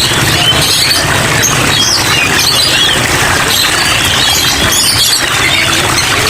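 Many small caged songbirds chirping and twittering at once, a dense chorus of short rising and falling calls, over a steady hiss of rain.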